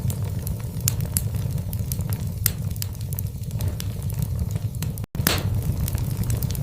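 Logs burning in a fireplace, crackling with scattered sharp pops over a steady low rumble of the flames. The sound cuts out for an instant about five seconds in.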